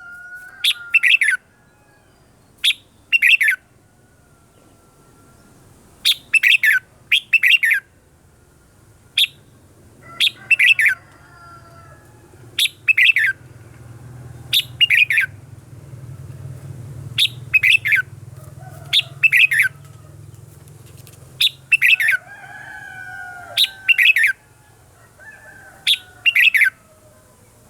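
Red-whiskered bulbuls singing: loud, short, sharp song notes repeated every second or two, often in quick pairs or threes. Fainter bird calls glide between them, and a low rumble runs through the middle.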